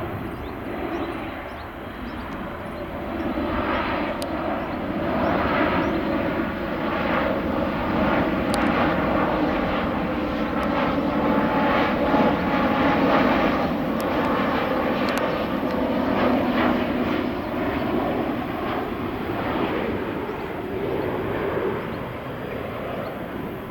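An airliner passing overhead, its engine noise building to a peak about halfway through, then fading away.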